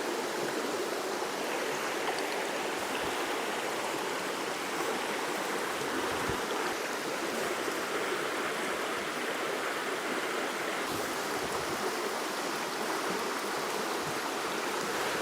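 Steady rush of flowing water, like a stream or small rapids.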